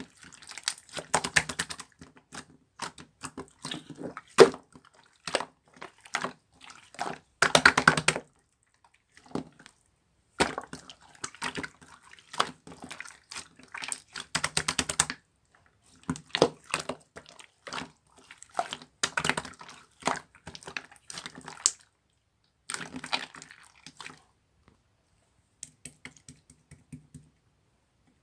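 Hands squishing, poking and folding slime: runs of wet clicks and small pops, broken by short pauses and fainter near the end.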